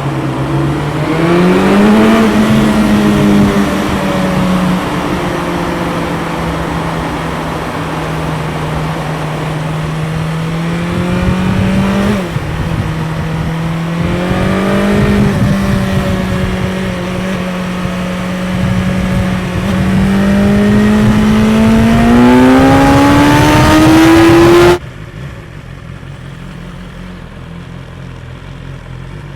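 BMW S 1000 XR's inline-four engine on its stock exhaust, heard onboard while riding: the note climbs, holds steady, dips sharply about twelve seconds in and picks up again, then rises steadily. Near the end it cuts off abruptly, leaving a much quieter low hum.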